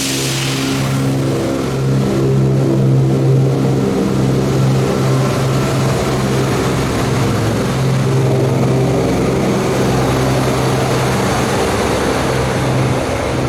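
Diesel train engine running under power: a loud, steady low drone with its pitch shifting in small steps. A hiss at the very start fades within about a second.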